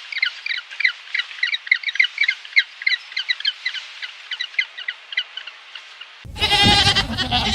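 Small birds chirping: a fast, dense stream of short, high, downward-slurred notes. About six seconds in, a loud goat bleat cuts in and takes over.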